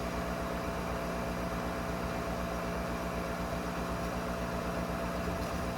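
Gas furnace draft inducer motor running steadily, a constant hum with a fast low pulse and a faint steady whine.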